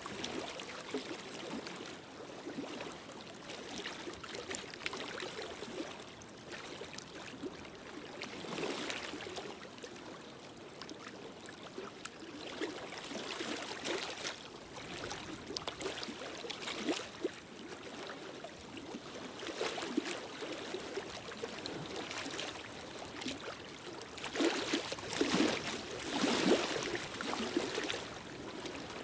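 Wood fire crackling in a fireplace: a steady hiss with scattered pops and snaps, growing louder and busier near the end.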